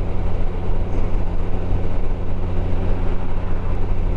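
Motorcycle engine running steadily at cruising speed, a low even hum under wind and road noise.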